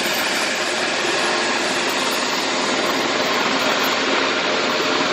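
Helicopter running steadily, an even rush of turbine and rotor noise with a faint steady whine.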